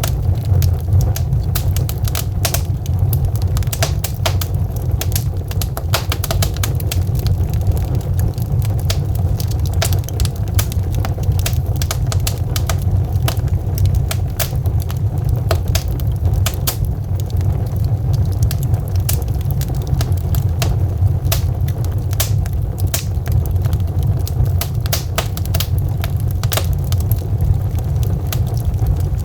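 Burning logs in a fireplace crackling, with frequent sharp pops scattered irregularly over a steady low rumble.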